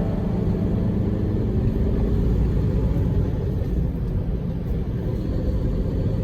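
Large truck on the move: a steady low rumble of engine and road noise.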